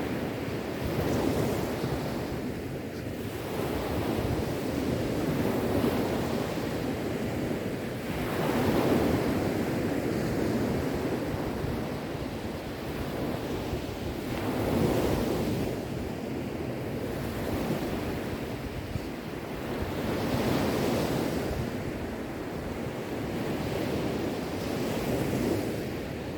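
Sea waves washing on the shore, the surf swelling and ebbing every few seconds.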